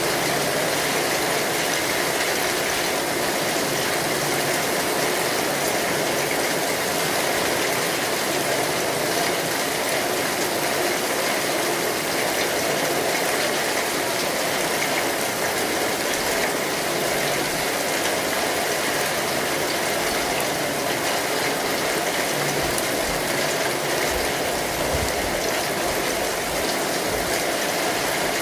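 Steady rain falling on an umbrella, an even, unbroken hiss of drops.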